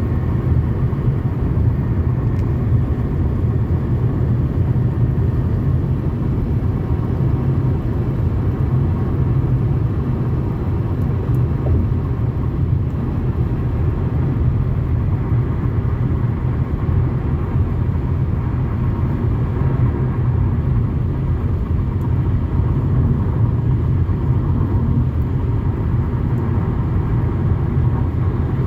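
Steady road and engine rumble inside a moving Toyota Camry's cabin, with a few faint ticks.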